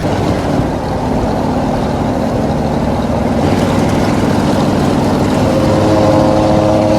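Gasser hot rod's engine running, growing a little louder, with a steadier pitched drone in the last couple of seconds.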